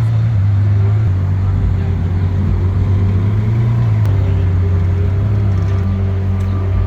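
A Ferrari's engine running close by at low, steady revs, a deep even hum that wavers slightly without any rev-up.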